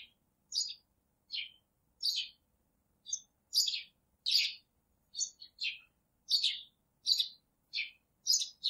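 Songbird chirping: a string of short, high chirps, about two a second, most of them sliding down in pitch, with silence in between.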